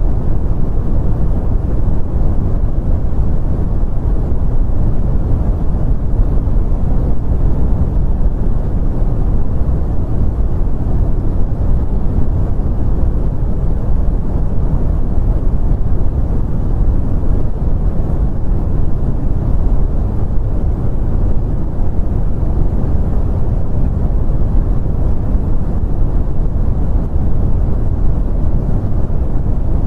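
Continuous brown noise: a steady, deep rumbling hiss, strongest in the bass and dull in the treble, with no changes.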